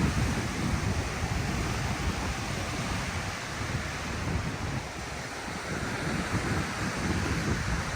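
Ocean surf washing onto a sandy beach, a steady rushing wash that swells and eases, with wind buffeting the microphone in low rumbling gusts.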